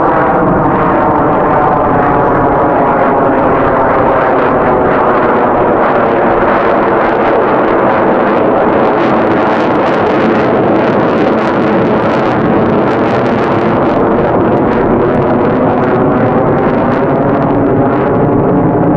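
F-22 Raptor's twin Pratt & Whitney F119 turbofans running at high power in flight: a loud, steady jet sound with a slowly shifting, phasing tone.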